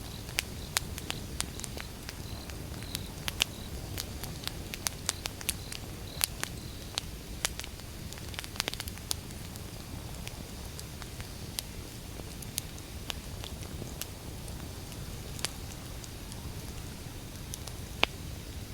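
Wood fire burning: a steady low rumble of flames under sharp pops and crackles from the burning logs, many in the first half and fewer later, with one loud pop near the end.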